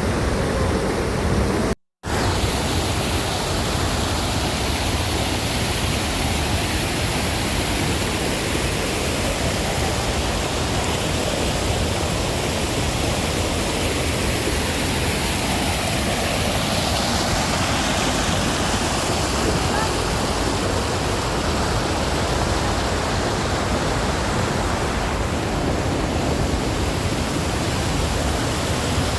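Waterfall rushing: a steady, even wash of falling-water noise, with a brief total dropout about two seconds in.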